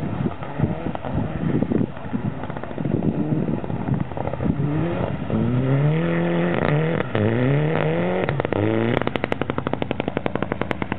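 Rally car engine revving up and down repeatedly as the car slides through a snowy corner, then, as it passes close by, a rapid even pulsing of about a dozen beats a second.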